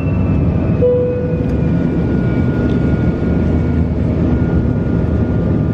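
Airliner engine noise heard inside the passenger cabin: a steady deep rumble with a few thin whining tones held over it.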